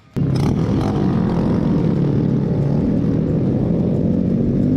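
Motorcycle engine running with a steady low drone, starting a moment in after a brief silence. Its pitch begins to rise near the end as it is revved.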